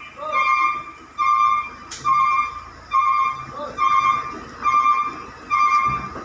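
Reversing alarm of a concrete mixer truck: a steady, high electronic beep repeating at about one beep a second.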